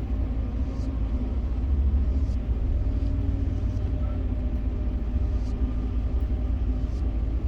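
Steady low rumble of a container crane's machinery running, with a few faint clicks.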